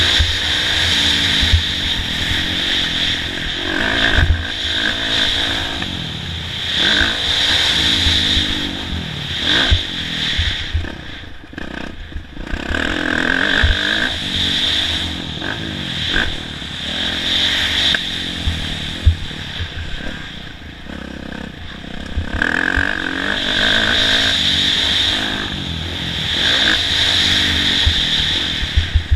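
Kawasaki KX450F motocross bike's single-cylinder four-stroke engine being ridden hard. It revs up and falls back again and again, easing off briefly twice. Short knocks and clatter come through from the bike over bumps.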